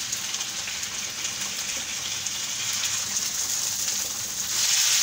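Browned sliced onions and freshly added tomato pieces sizzling in hot oil in a frying pan while a spatula stirs them. The sizzle grows louder about four and a half seconds in.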